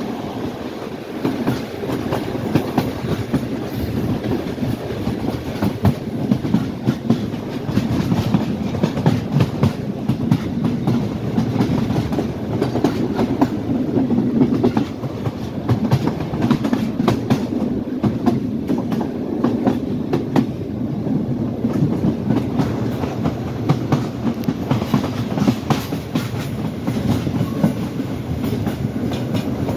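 Passenger train coach running through a station's track junction: steel wheels clattering over rail joints and points in frequent irregular clicks over a steady rumble.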